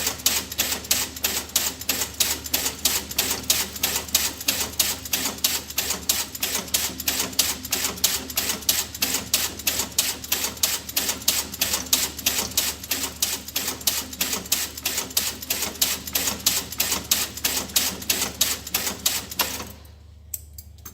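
Toy clicking in a fast, even rhythm of sharp clacks, about five a second, that stops abruptly near the end.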